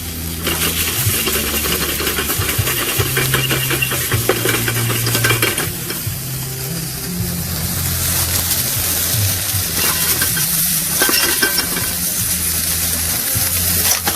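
Food sizzling and frying in a pan with a dense crackle, and a utensil stirring and clinking against it. The sizzle is loudest for the first few seconds, drops back, and swells again about ten seconds in.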